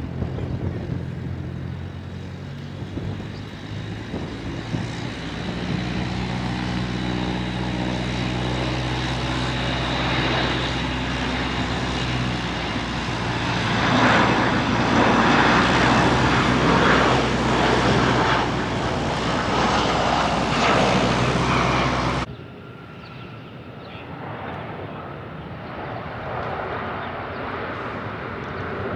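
Airplane engines running with a steady low hum that builds to its loudest through the middle, then cuts off suddenly about three-quarters of the way through, giving way to fainter aircraft noise.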